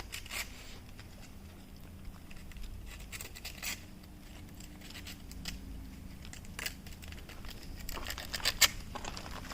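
Faint scattered clicks, taps and scratching of hand work with metal parts and tools, over a faint steady low hum.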